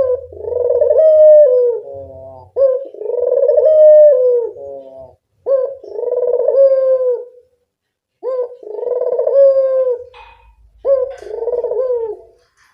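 A burung puter (domestic ringneck dove) coos loudly and close up, in five repeated phrases about every three seconds. Each phrase is a short rising note followed by a long, held coo that dips at its end.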